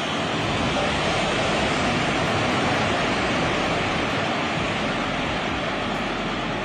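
A loud, steady rushing noise with no distinct tone or rhythm.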